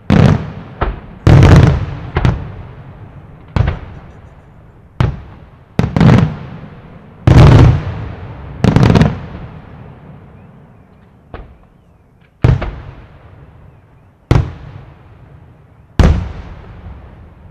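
Aerial firework shells bursting in the sky: about a dozen sharp booms at irregular intervals of one to two seconds, each trailing off in a rolling echo.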